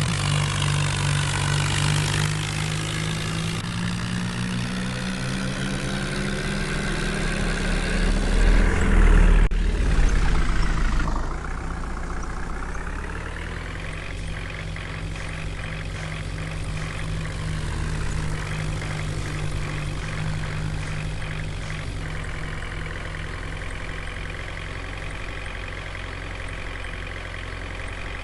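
Tractor diesel engine working under load, loudest and changing pitch about eight to eleven seconds in, then settling to a steady, lower run.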